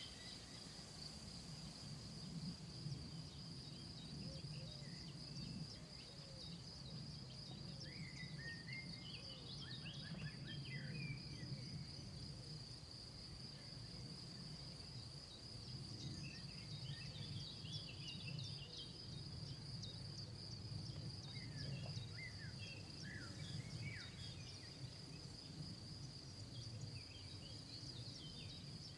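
Insects trilling steadily in one continuous high note, with small birds chirping here and there, loosest around ten seconds in and again from about sixteen to twenty-four seconds. A faint low rumble runs underneath.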